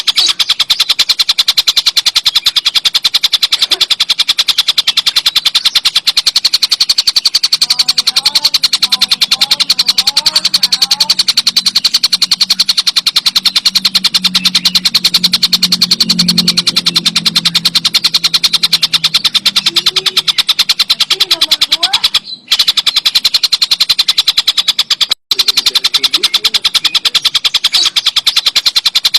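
Tengkek buto kingfisher giving a long, very rapid rattling call, a dense machine-like chatter. It breaks off twice for an instant a little past the two-thirds mark.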